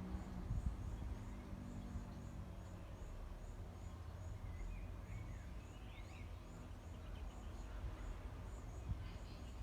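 Outdoor ambience: a low rumble underneath, a faint high chirp repeating about twice a second, and a few short bird-like chirps around the middle.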